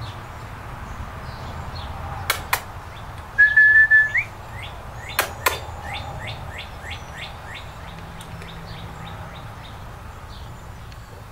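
Bird calls: one clear, steady whistle that sweeps upward at its end, then a run of short high chirps, about three or four a second, fading later. A few sharp clicks come before and after the whistle.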